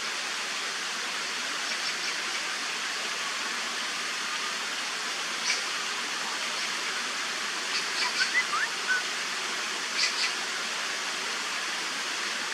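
Steady rushing of flowing water, with a few short, high bird chirps scattered through the middle.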